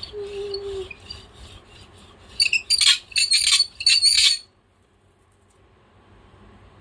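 A bird squawking loudly, five or so shrill harsh calls in quick succession, after a brief lower steady note at the start.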